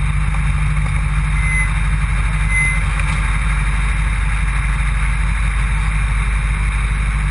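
Rally car's engine idling, heard from inside the stripped cockpit: a steady low drone.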